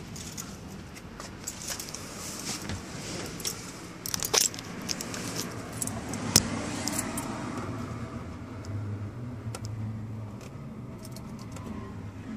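Light metallic jingling and scattered clicks, loudest about four and six seconds in, over a low steady rumble.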